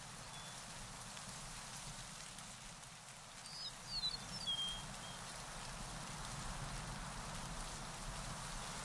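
A steady hiss of background noise, with a bird giving a brief cluster of quick, high chirps and whistled notes about halfway through.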